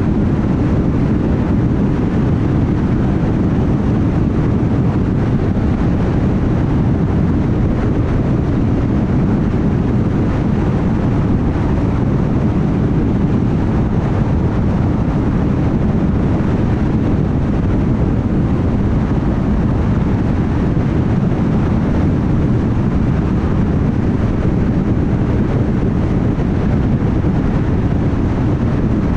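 Steady road noise of a car cruising at highway speed: a low, even rumble of tyres and engine, with no distinct events.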